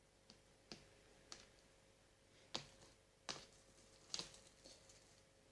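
Light clicks and taps of kitchen things being handled, about seven scattered irregularly over five seconds against near silence.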